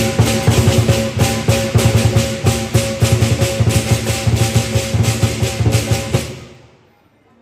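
Lion dance percussion of drum, cymbals and gong, played loud and fast with many strokes a second, stopping abruptly about six seconds in and ringing out briefly.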